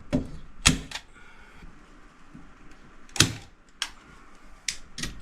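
Hand staple gun firing staples to fix line across insulation: a series of sharp clacks, two of them much louder than the rest, spread unevenly over a few seconds.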